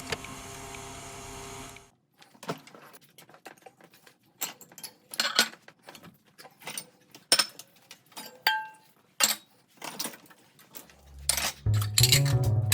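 Dishes and kitchen items clinking and knocking as they are handled, in scattered sharp taps, with one short ring like glass or china struck about two-thirds of the way in. A steady hum cuts off after about two seconds, and music with a low bass line comes in near the end.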